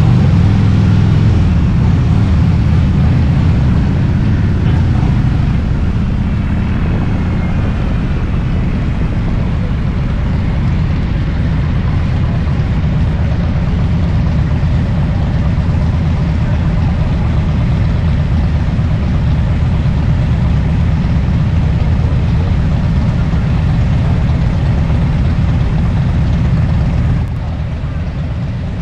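Motorcycle engine running at a steady cruising speed, mixed with heavy wind rush on the microphone. The sound steps down a little near the end.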